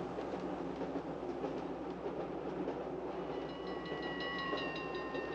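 Steady rumble of a moving passenger train heard from inside the car, with a light rhythmic clicking. About three seconds in, a held chord of high tones joins it, sinking slightly in pitch.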